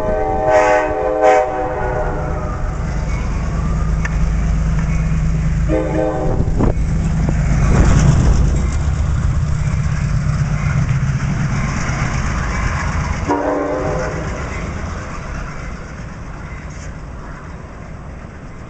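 LIRR MP15 diesel switcher locomotive passing with its plow train, its horn blowing a long blast followed by two shorter ones as it goes by. The engine's low running drone builds to its loudest about eight seconds in, then fades as the train moves away.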